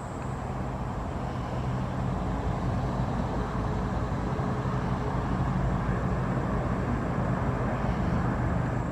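Motor vehicle engine and road noise, a steady rumble with a low engine hum that swells slightly and cuts off suddenly near the end.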